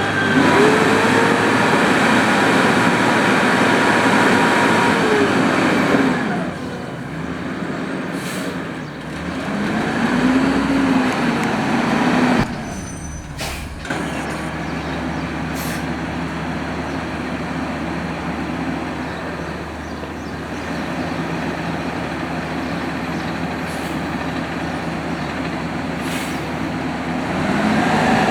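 Automated side-loader garbage truck at work: its diesel engine revs up and down with whines that glide in pitch, and there are a few short sharp hisses, typical of the air brakes. In the middle stretch it runs more steadily, and it revs up again near the end.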